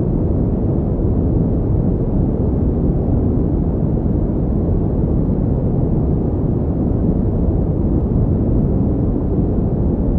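Synthetic pink noise playing as a continuous, unchanging hiss, weighted toward the low end so it sounds deep and rumbly.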